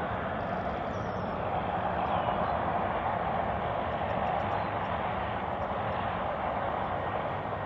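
Jet airliner engines at a distance, a steady even rushing noise.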